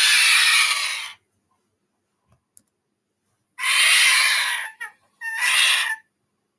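Three harsh, raspy bird calls, each about a second long or less, with short silences between them.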